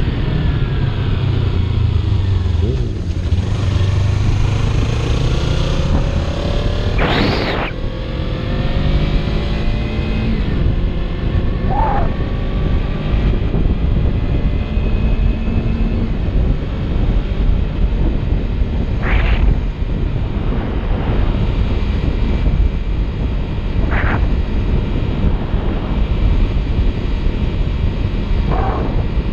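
Kawasaki Ninja 300's parallel-twin engine running under way, its pitch rising and falling with throttle and gear changes, over steady wind rush on the helmet microphone.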